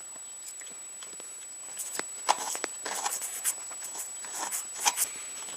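Scattered light metallic clicks and scrapes of a wrench and small parts as a motorcycle brake lever's pivot bolt is worked loose, starting about two seconds in.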